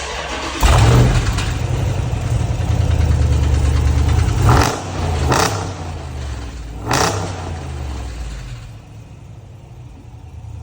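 Hemi V8 car engine with its muffler deleted, revved hard about a second in and held for a few seconds, then three short sharp blips, before settling back to a lower idle near the end.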